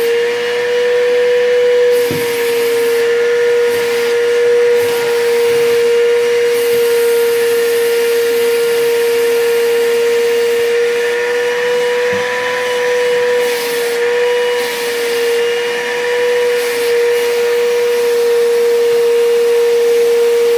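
Bissell PowerForce upright vacuum cleaner running steadily, its motor giving one constant whine over a rush of airflow, with a couple of faint knocks.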